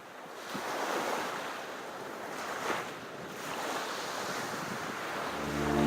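Sea waves washing in and falling back in slow surges, with music fading in near the end.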